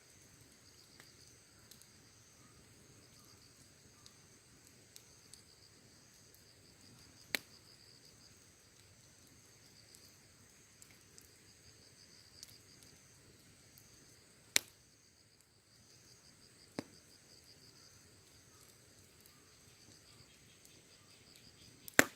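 Wood bonfire burning, with four sharp pops from the fire a few seconds apart, the loudest near the end, over steady high chirring of insects.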